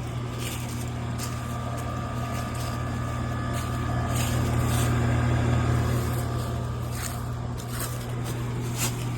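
Air-conditioning equipment running with a steady low hum and a faint steady whine above it, swelling slightly partway through.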